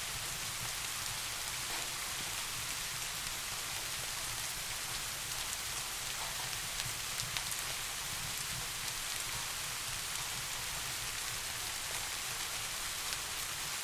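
Steady rain falling: an even hiss with faint scattered drop ticks over a constant low undertone.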